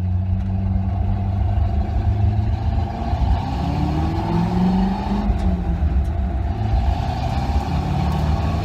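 1967 Chevy C20 pickup's V8 running through its freshly fitted mufflers as the truck drives, the engine note rising with acceleration about three and a half seconds in and again near the end.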